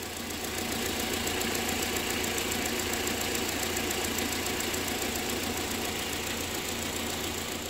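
Volkswagen 1.8 20-valve inline-four (engine code ADR) idling steadily, with the drive belt to the viscous fan clutch taken off. This is the test for worn viscous fan clutch bearings: with the belt off the rubbing and knocking noises are gone, which points to damaged fan clutch bearings.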